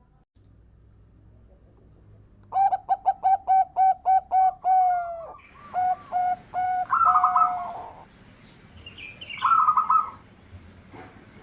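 Zebra dove (perkutut) cooing. After a quiet start, a quick run of short, clipped coo notes at about four a second is followed by a few longer drawn-out notes. A shorter burst of higher notes comes near the end.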